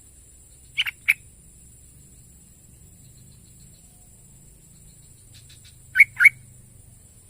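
Yellow-vented bulbul calling in short, sharp bursts: a quick pair of notes about a second in, faint softer notes in the middle, and another loud pair near the end.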